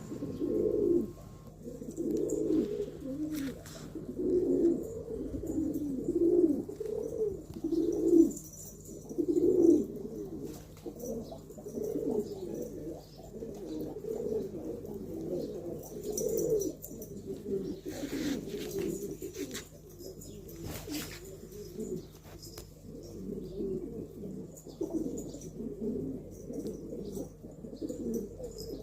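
Pigeons cooing, low calls following one after another without a break, with a few faint clicks and chirps.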